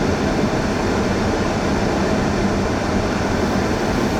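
Steady road noise of a car driving through a blizzard, heard inside the cabin: tyres, engine and wind blended into an even rumble with a low steady hum.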